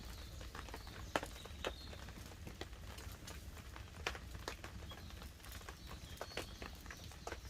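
Wood campfire crackling: irregular sharp snaps and pops of burning wood, the loudest about a second in, over a low steady rumble.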